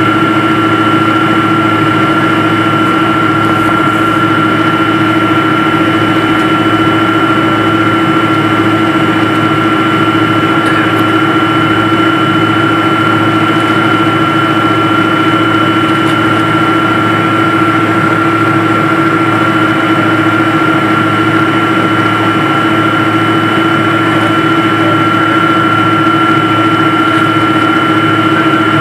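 Jet airliner's engines heard inside the passenger cabin: a steady, unchanging drone with a constant whine.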